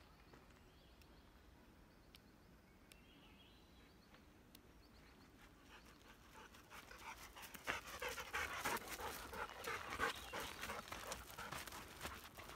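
Golden retriever panting with quick, rhythmic breaths, starting about two-thirds of the way in, together with footsteps crunching on a gravel trail. Before that it is quiet.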